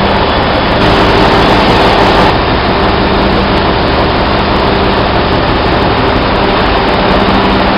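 Loud, steady drone of running machinery, with a constant low hum under dense mechanical noise, as in a ship's engine room.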